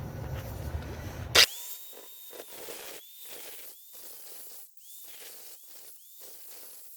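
Angle grinder with a cutoff wheel cutting steel. There is a sharp loud click about one and a half seconds in, after which the sound becomes thinner and quieter.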